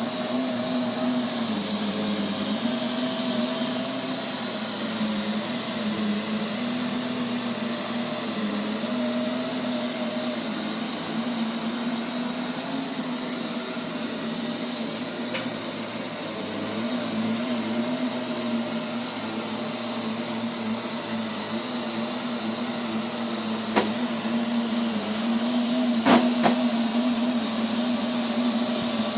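Neato robot vacuum running with a loud, steady hum whose pitch wavers slowly up and down, the abnormal noise that started out of the blue and comes at random intervals. A few sharp clicks sound in the second half.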